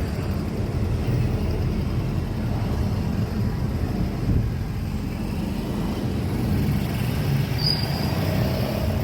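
Airbus A330-200 jet airliner in flight: a steady, dense low rumble of engine and airflow noise.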